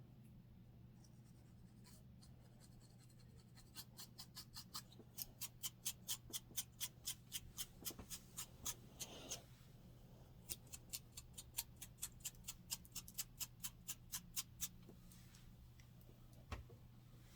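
Rapid scratching strokes across a scalp with dandruff, about four a second, in two runs separated by a short pause near the middle.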